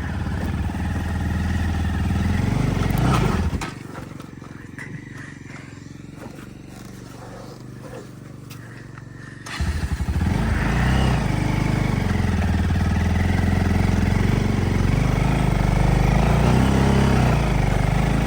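Motorcycle engine running with a steady low note. About three and a half seconds in it drops away to a quieter stretch with light clicks and knocks. A little under ten seconds in it comes back abruptly and runs on steadily.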